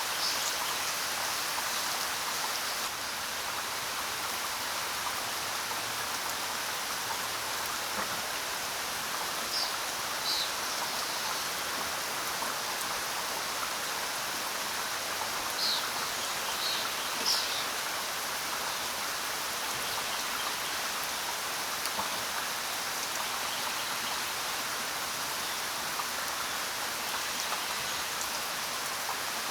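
Steady rain falling. A bird gives a few short, high chirps twice, about ten seconds in and again a little later.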